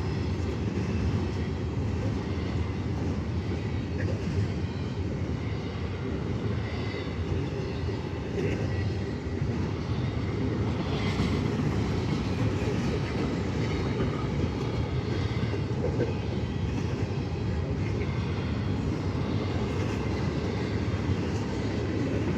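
Freight train of container cars rolling past: a steady low rumble of wheels on the rails, with faint squeals from the wheels.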